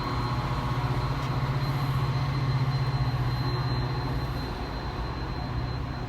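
Train passing with a steady low diesel-engine drone, growing louder two to three seconds in and easing off after about four and a half seconds.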